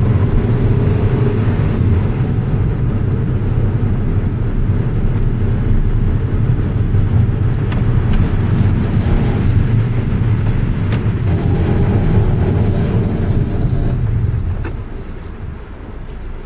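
Road and engine noise of a 2006 Subaru WRX heard from inside the car as it drives through a right-hand turn, with a faint grinding from the rear left wheel. The grinding comes only on right-hand turns and started to be heard every time after new brake pads and rotors were fitted. The noise drops off near the end as the car slows.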